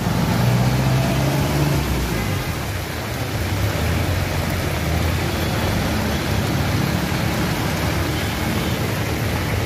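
Heavy rain over the steady running of motor-vehicle engines in traffic. A low engine hum is strongest in the first two seconds.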